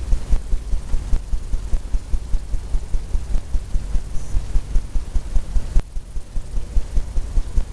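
A low, uneven rumble that pulses several times a second.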